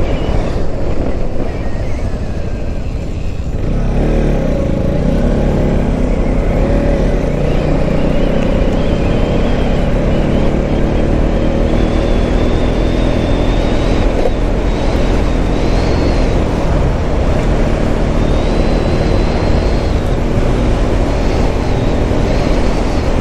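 Motorcycle engine running under way, heard from the rider's position with wind and road noise over it. The note dips briefly about three seconds in, then picks up again and holds steady.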